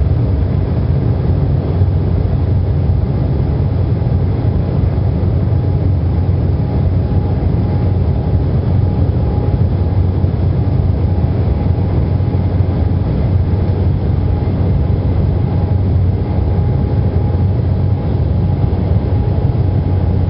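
Steady drone of an airplane in flight heard from inside the cabin: engine and airflow noise, heaviest in the low end, with a faint steady whine above it.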